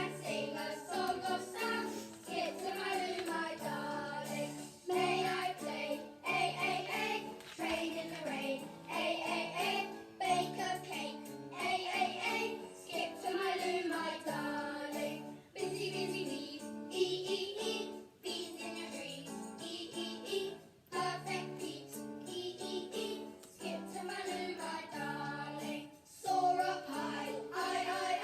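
A children's song: singing voices over backing music with a steady bass line.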